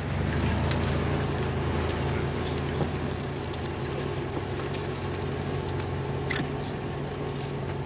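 Vehicle engines idling with a steady low hum, with a faint click or two.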